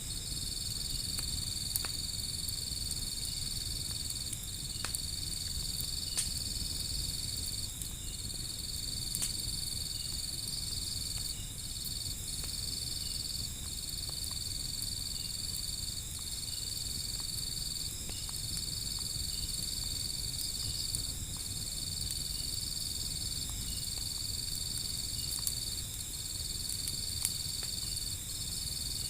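A steady, high-pitched insect trill, broken by short gaps every second or two, over a low rumble. A few sharp pops from a crackling wood fire cut through it.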